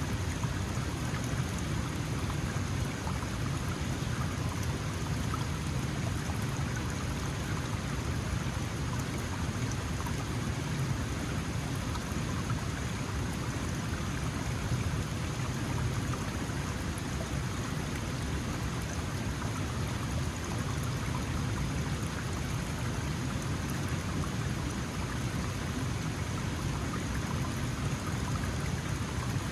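Small mountain stream flowing and splashing over rocks, a steady rushing of water.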